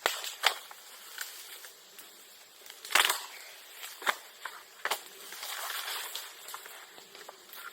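Bonfire of bamboo and bamboo grass crackling, with several sharp pops, the loudest about three seconds in.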